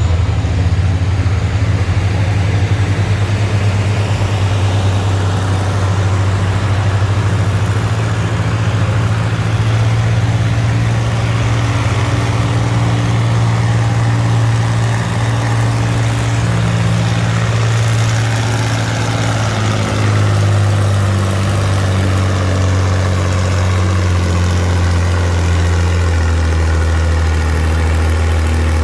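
Antique tractor engine running loud and steady, its pitch stepping down a little about two-thirds of the way through.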